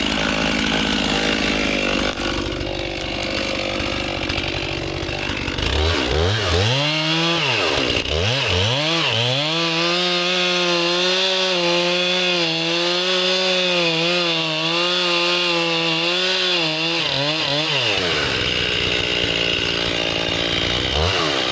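Chainsaw cutting a large tree. The engine runs rough at first, revs up about six seconds in, holds high with small wavers under the cut, drops back near the end, then revs again.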